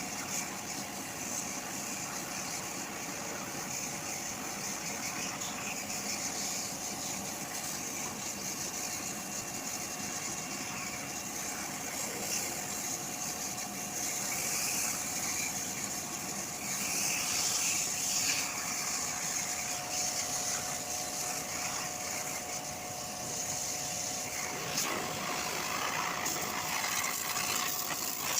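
A machine running steadily, with a constant hiss and a steady hum, and the hiss swelling a little now and then.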